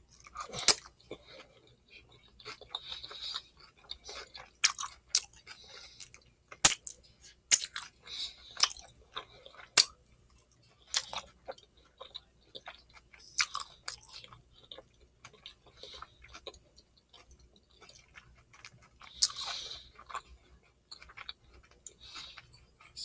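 Close-miked chewing of a cheesesteak sub's bread crust: irregular crisp crunches and wet mouth clicks, with a few sharp louder crunches, one a little under a second in and one around seven seconds in.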